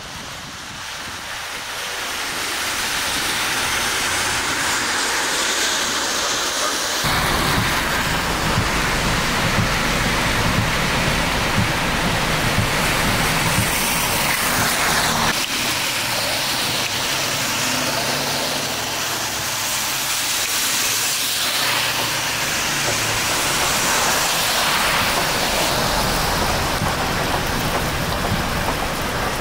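Steady rain on a wet city street, with car tyres hissing through the water. A low engine rumble comes in suddenly about seven seconds in.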